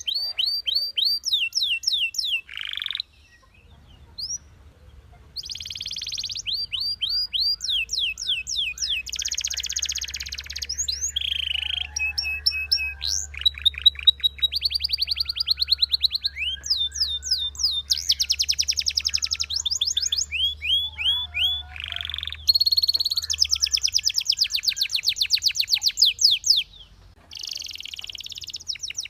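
Belgian canary singing long runs of rapid repeated notes and trills, each run a different tour, broken by brief pauses, one a few seconds in and another near the end.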